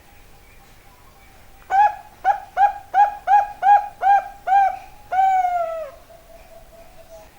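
Zebra dove (perkutut, Bangkok type) singing: a quick run of about eight short cooing notes at roughly three a second, ending in one long falling note.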